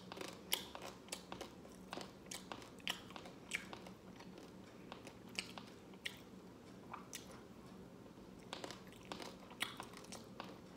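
Close chewing of scorched rice crust (dukot), with irregular crunches and mouth clicks, several a second.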